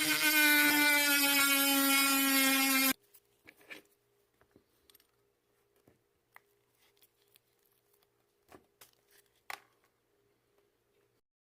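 Small high-speed rotary tool running with a whine, its pitch sagging slightly as it bears on the work, then switched off abruptly about three seconds in. Faint clicks and taps of small parts being handled follow.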